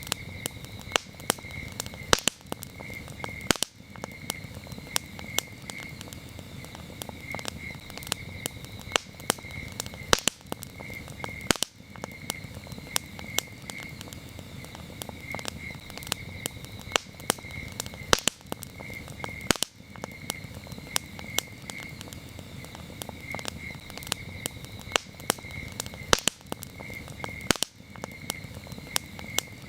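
Wood campfire crackling, with frequent sharp pops over a low steady noise of the burning fire. Crickets chirp throughout in short, evenly repeated high trills.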